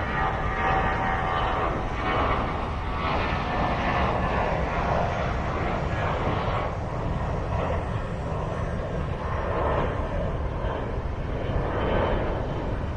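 Jet engines of an American Airlines airliner passing: a steady rushing noise, heaviest at the low end.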